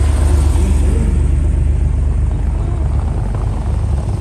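Classic air-cooled Porsche 911 flat-six engine, a low steady rumble as the car drives slowly past at close range, easing slightly as it moves on while a second Porsche follows.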